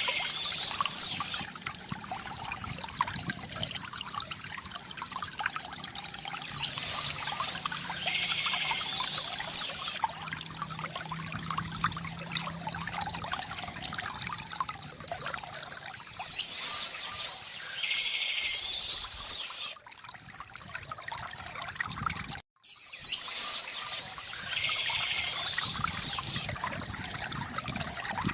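A small stream trickling and splashing steadily, with four short spells of songbird song above it. The sound drops out for a split second about three-quarters of the way through.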